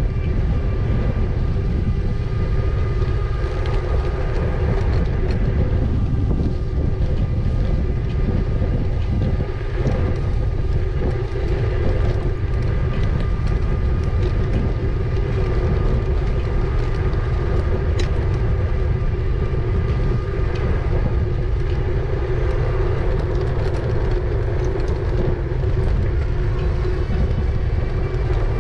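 E-bike riding noise: heavy wind rumble on the microphone with a steady whine from the bike's motor and tyres rolling on the promenade.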